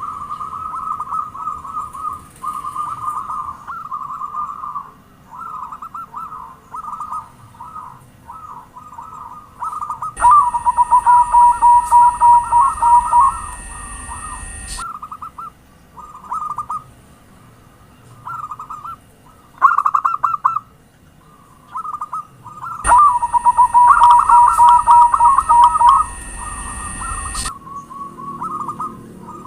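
Zebra doves (perkutut) cooing in quick, trilling staccato phrases, repeated with short gaps. Twice a much louder stretch of cooing cuts in abruptly and stops after about four to five seconds.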